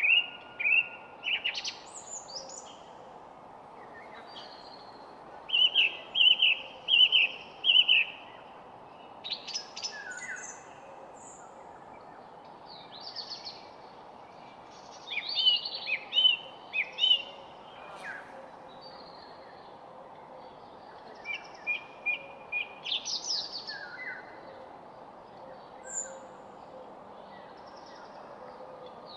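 Songbirds singing and calling in phrases of short, quickly repeated high notes, with gaps of a second or more between phrases, over a steady background hiss.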